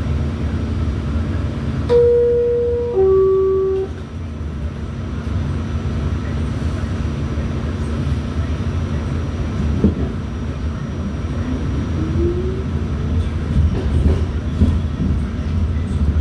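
Inside an R46 subway car: a two-note descending chime, each note about a second long, the NYC subway door-closing chime. It sits over the steady rumble of the car, followed later by a short rising motor whine and scattered clicks of wheels over the rails.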